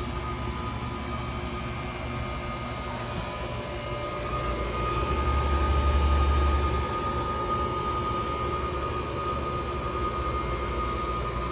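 Steady low mechanical drone with a thin steady whine above it, swelling louder for a couple of seconds midway.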